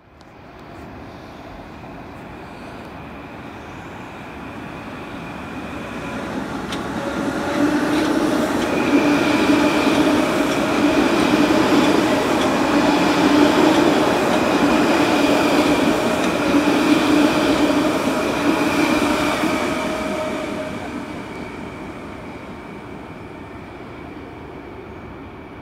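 A stainless-steel electric multiple-unit commuter train approaches, runs through the station at speed and recedes. The rumble builds, is loudest for about ten seconds in the middle as the cars pass, then fades. A steady high whine runs along with it.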